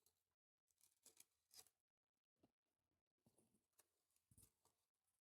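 Near silence with faint, scattered crackling and clicking eating noises from chewing and handling curly fries.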